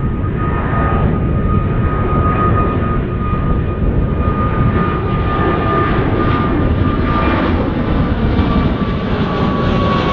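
Jet airliner on landing approach passing close by: a loud steady engine roar with a high fan whine that sinks slightly in pitch, growing brighter toward the end.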